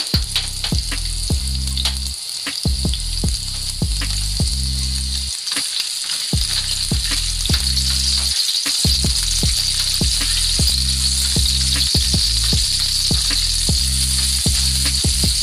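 Sliced shallots and garlic sizzling in hot cooking oil in a frying pan, stirred with a spatula.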